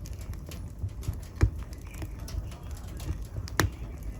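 Wood fire in a fireplace crackling: irregular sharp pops over a low, steady rumble of the flames, with the loudest pops about one and a half seconds in and again near the end.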